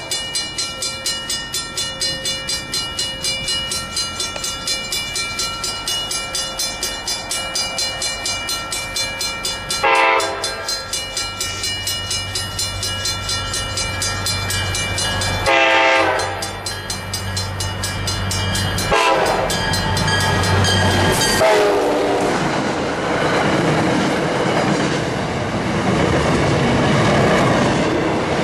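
Locomotive horn sounding a series of blasts: one about ten seconds in, a longer one near sixteen seconds, then two short ones. Through the first part a railroad crossing bell rings about three times a second, and a low engine drone builds under the horns. After about twenty-two seconds the rushing noise of the train passing on the rails takes over.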